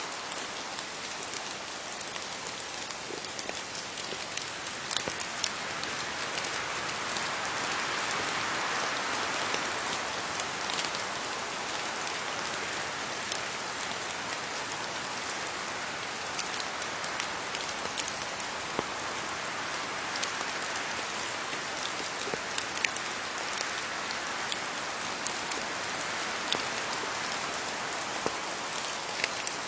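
Steady rain falling on leaves, an even patter with scattered sharper drops landing close by.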